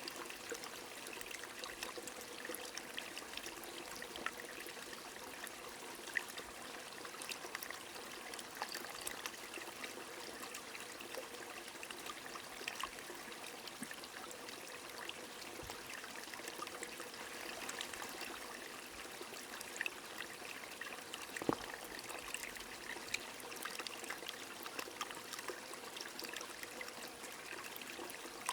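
Steady rain together with a trickling stream: an even wash of running water sprinkled with many small drop ticks, one a little sharper about three-quarters of the way through.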